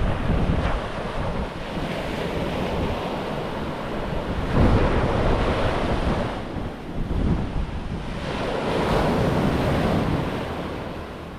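Ocean surf washing onto the beach, a steady rush that swells about four and a half seconds in and again around nine seconds, with wind buffeting the microphone.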